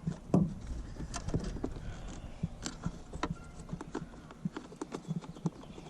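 Irregular clicks, taps and knocks of plastic dashboard trim and its clips being pried and handled, the loudest knock about a third of a second in.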